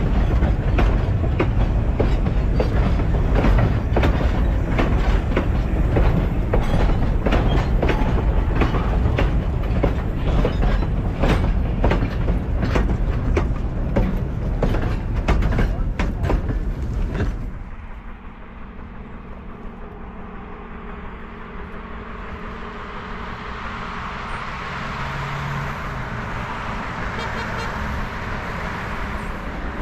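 Narrow-gauge hopper cars and a caboose rolling past close by, their wheels clicking rhythmically over the rail joints. About seventeen seconds in the sound drops sharply to a fainter, steady noise that slowly grows louder: a steam locomotive working in the distance.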